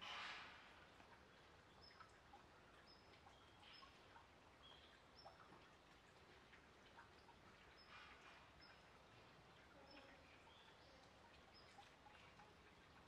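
Near silence outdoors with a bird faintly chirping: short, high notes repeating about once a second, with a few soft rustles.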